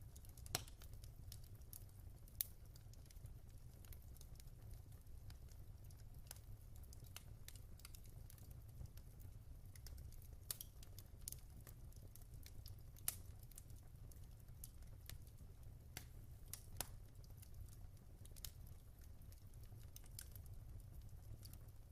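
Wood fire crackling in a fireplace: scattered sharp pops and snaps over a low steady rumble, with a handful of louder pops spread through.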